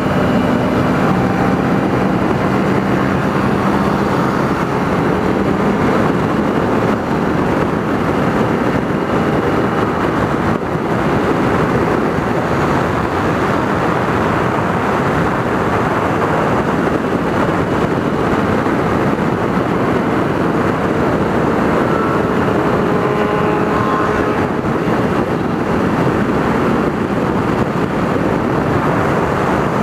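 Kawasaki Ninja 300 riding at speed: steady wind rush over the microphone, with the engine's note faintly under it.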